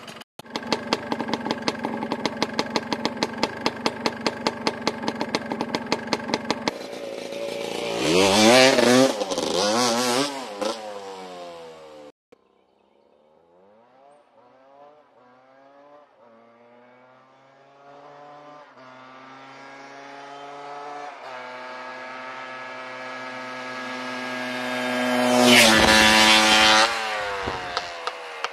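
Kick-started two-stroke engine, just cold-started, idling with an even popping beat, then revved up and down a few times. After a sudden cut, an engine's pitch climbs in steps as it grows louder to a peak near the end, then falls away.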